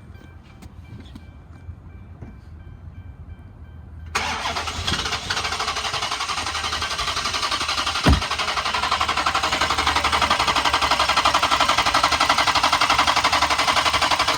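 Starter cranking a 2012 Dodge Charger PPV's 5.7-litre Hemi V8, which turns over steadily but never catches, from about four seconds in for about ten seconds. One sharp thump comes partway through the cranking. The engine is a non-starter with a reported knocking noise.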